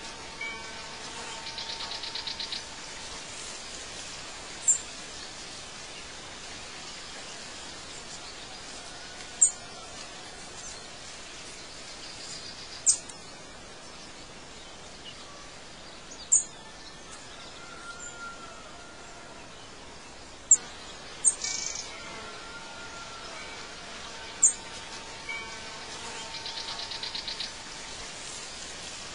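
Outdoor ambience of short, sharp, very high bird chirps coming singly every few seconds over a steady hiss. A brief buzzing trill comes in twice, once near the start and once near the end.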